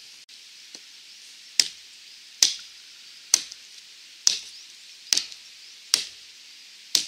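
Small Wetterlings Wildlife hatchet chopping into a dead branch: seven sharp strikes of steel biting into wood, about one a second, starting about a second and a half in.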